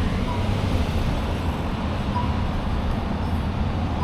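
Steady wind rush and road noise from riding a Savic C3 electric motorcycle, with a short faint beep repeating about every two seconds.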